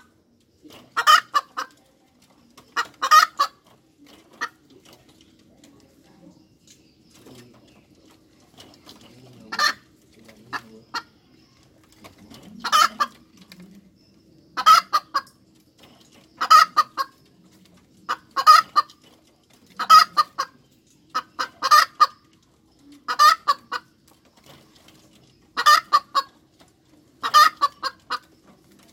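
Hen cackling: loud clusters of short calls repeated about every two seconds, with a few seconds' lull after the first few calls. A faint steady hum runs underneath.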